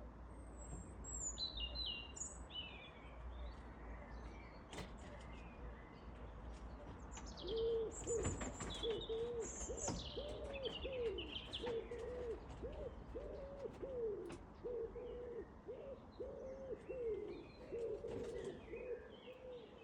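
Songbirds chirping and singing, and from about a third of the way in a pigeon cooing in a steady run of low, evenly repeated notes.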